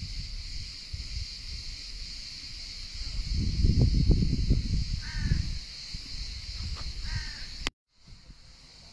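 Wind gusting on the microphone over a steady high hiss, with a bird calling twice, about five and seven seconds in. The sound cuts out for a moment near the end.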